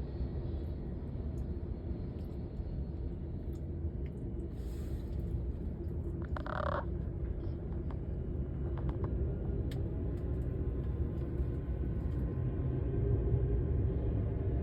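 Low, steady rumble of jet aircraft engines, growing a little louder near the end. A brief sharp call or squeal cuts in about six and a half seconds in.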